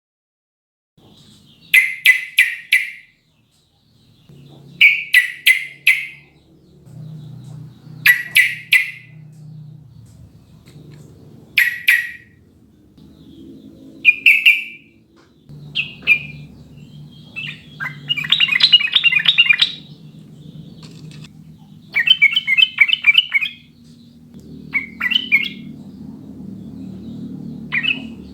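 Yellow-vented bulbul (trucukan) singing: short phrases of a few quick bubbly notes repeated every three seconds or so, then longer, faster chattering trills in the second half. A faint low hum runs underneath.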